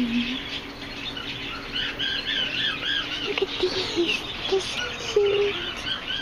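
Caged pet-shop birds twittering: a busy run of quick, wavy chirps in the first half, sparser after.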